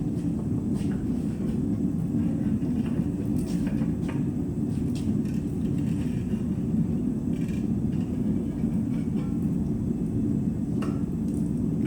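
Steady low rumble, with a few faint light clicks scattered through it.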